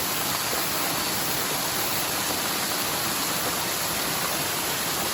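Small mountain forest stream running in spate after heavy typhoon rain, water rushing steadily down its bed.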